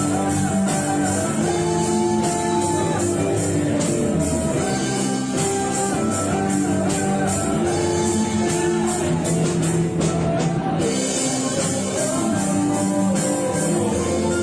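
Live band playing a rock-style Hindi pop ballad: guitar and drum kit with a steady cymbal beat under a held, gliding melody line. The cymbals drop out for about a second past the middle.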